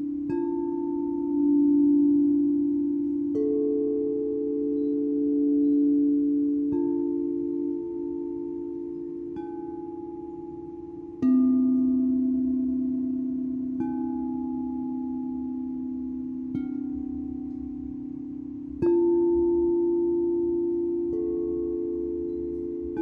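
Singing bowls struck one after another about every two to three seconds, nine strikes in all, each ringing on in long overlapping tones.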